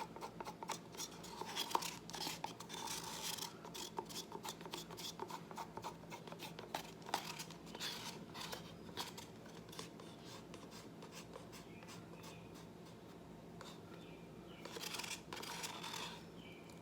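Leftover acrylic paint being scraped out of a cup: a run of short scrapes and clicks of a tool against the cup's sides, thinning out in the middle and picking up again near the end.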